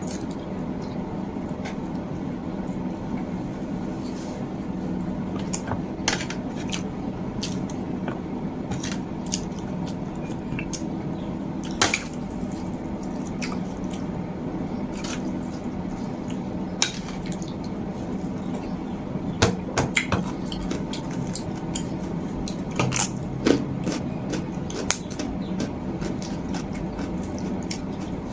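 Eating sounds: scattered sharp clicks of cutlery against a dish and wet eating noises over a steady low background hum.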